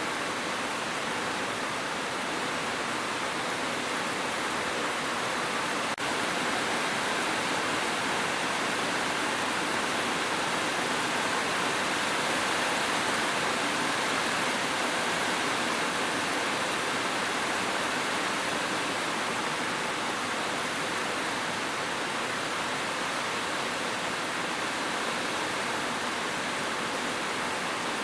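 Steady, dense hiss of heavy rain, even and unchanging, with no separate drops standing out.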